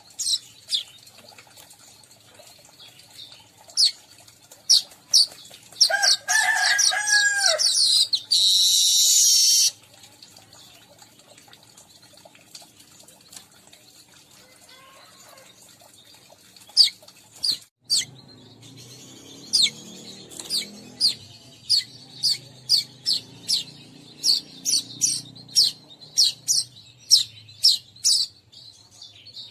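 Lure recording of weaverbirds calling: runs of short, sharp high chirps, with a harsh buzzing chatter for a few seconds early on and a steady series of chirps, about two a second, through the second half.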